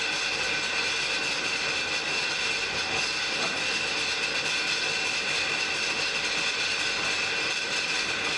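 Blacksmith's forge fire burning steadily: an even rushing hiss with a steady high whine in it and no hammer blows.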